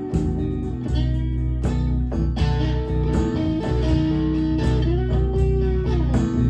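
Music: an instrumental guitar break in a blues-style song, with held lead notes that bend in pitch over a steady low accompaniment.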